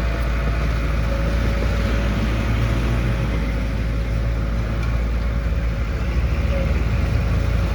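Heavy construction machine's diesel engine running steadily at an even pitch.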